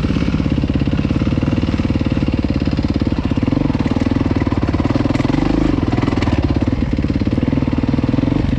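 Dirt bike engine running steadily at low revs close to the microphone, with a rapid, even firing beat.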